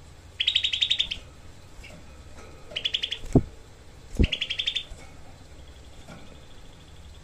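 Cucak kelabu songbird giving three bursts of its tight, rapid-fire harsh 'shot' call, each a fast rattle of notes under a second long. Two short low thumps come between them, about three and a half and four seconds in.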